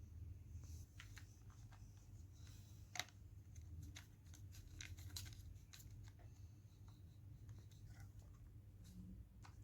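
Quiet room with a low steady hum and scattered faint clicks and scratches, one sharper click about three seconds in.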